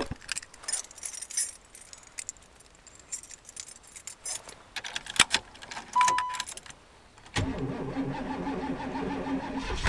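Keys jangling and clicking in the ignition, with a short beep about six seconds in. Then the 1992 Chevrolet Caprice wagon's V8 cranks on the starter in a steady rhythm from about seven seconds in and begins to fire at the end: a cold start in deep frost.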